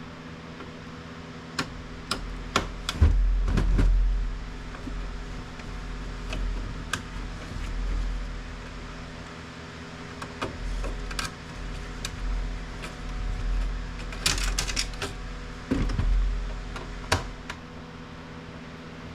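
Scattered clicks and knocks of plastic and metal parts as an HP inkjet printer-scanner is taken apart by hand, with uneven low thuds of handling and a quick run of clicks about fourteen seconds in.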